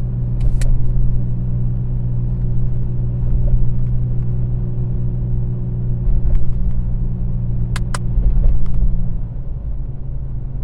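Steady in-cabin drone of a Toyota Tacoma pickup driving at cruising speed: low engine hum and road rumble. A few short sharp clicks break in, once about half a second in and twice close together later on.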